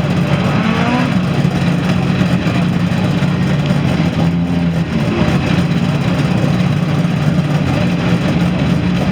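Group B rally car engine running with a steady, fairly low note that rises and falls slightly.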